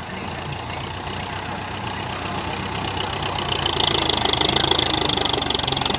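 Belarus 510 tractor's diesel engine running, growing louder over the second half as a high-pitched noise joins in.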